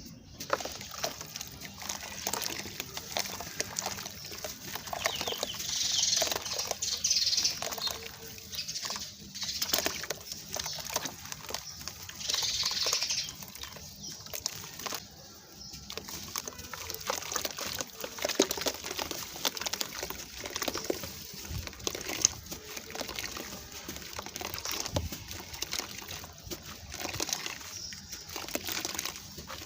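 Crunchy sand-cement chunks being crushed and crumbling: an irregular run of crunches and crackles, with louder gritty hissing stretches about five to eight seconds in and again around twelve seconds.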